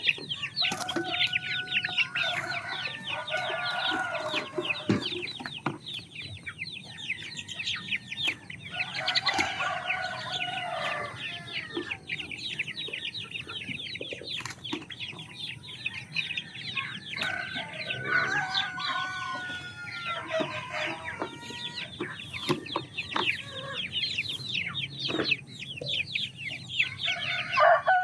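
A flock of chickens calling: a constant high chatter of clucks, with drawn-out crowing several times, near the start, about nine seconds in and again around eighteen seconds.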